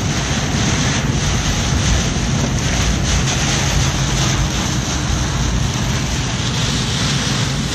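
Steady, loud rushing noise of a car driving through hurricane wind and rain, with a low steady hum of the car's engine and tyres underneath.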